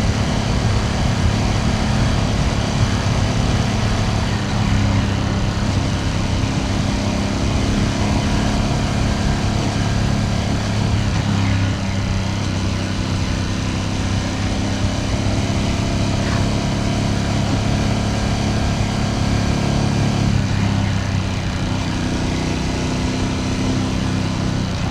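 Ducati Panigale V2S twin-cylinder engine and exhaust running at a steady cruise under the rider. The pitch shifts about twelve seconds in and again around twenty seconds, as the throttle or gear changes.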